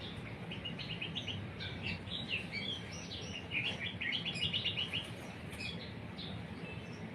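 Songbird twittering: quick runs of short, high chirps, busiest in the middle, over a faint steady low hum.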